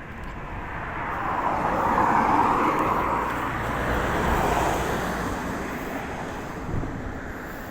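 A road vehicle passing by: the noise of its tyres and running swells over a couple of seconds, stays up, then fades away.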